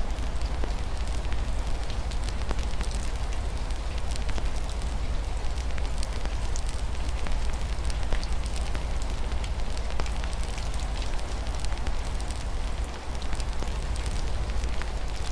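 A wood fire crackling, with frequent small sharp pops and snaps, over a steady hiss of rain and a continuous low rumble.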